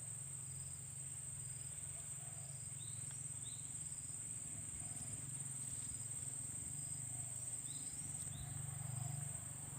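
Steady, high-pitched drone of insects such as crickets or cicadas. Short chirps recur every second or so, over a low steady rumble.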